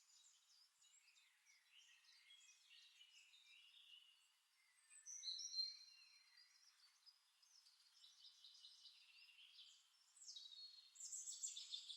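Faint birdsong from a nature-sound background track: scattered short, high chirps, a little louder about five seconds in and again near the end.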